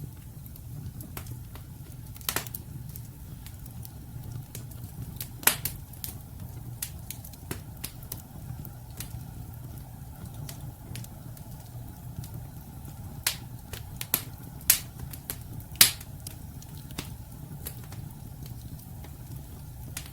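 Wood fire burning in a fireplace: logs crackling and popping at irregular intervals over a steady low rumble of the flames, with a few louder pops, several of them close together in the second half.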